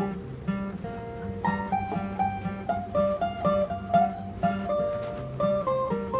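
Acoustic guitar playing a picked instrumental intro: a melody of single notes over a steadily repeating bass pattern.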